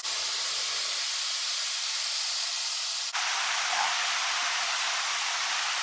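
Steady rushing hiss of a large waterfall heard close to its base, in the spray. The sound changes abruptly about one second and again about three seconds in.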